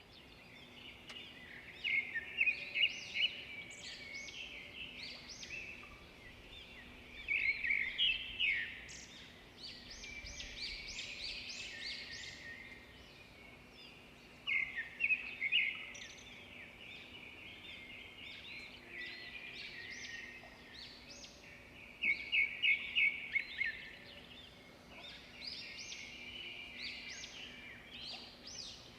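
Songbirds singing and chirping, several calls overlapping. Louder bursts of quick repeated chirps come every several seconds.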